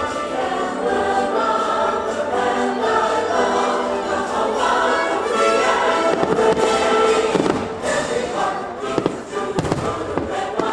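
Fireworks show soundtrack with a choir singing over orchestral music, with fireworks bursting over it, several sharp bangs in the second half.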